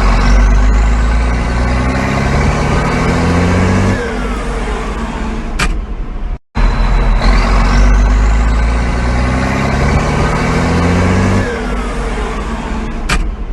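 John Deere diesel tractor engine running loud and heavy just after a cold start, with a high whistle that climbs in pitch. About four seconds in the engine eases down, a sharp click follows, and after a brief cut the same run-up plays a second time.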